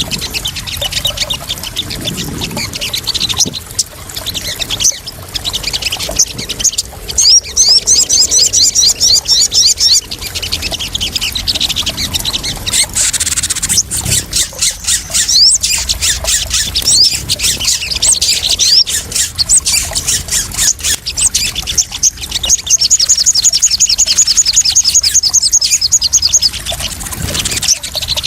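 Crimson sunbird (sogon) calling in long runs of rapid, high, evenly repeated chirps, a little like a fast metallic trill. Splashing water runs softly underneath.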